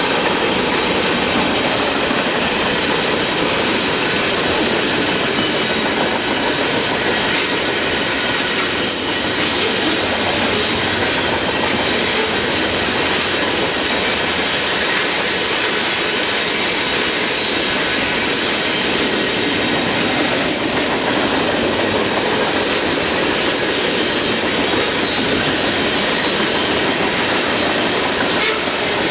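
Freight train cars rolling past steadily, with a continuous rumble and rattle of steel wheels on rail and a thin, steady high squeal from the wheels.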